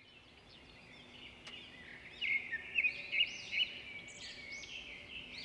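Birds chirping and singing in quick repeated rising-and-falling notes over a steady high background hiss, the calls growing louder about two seconds in.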